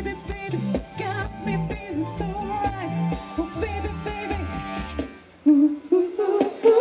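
Live pop band music: drums, a bass line and sung or hummed vocal lines without clear words. About five seconds in the bass drops out and the music thins, then loud drum hits come back near the end.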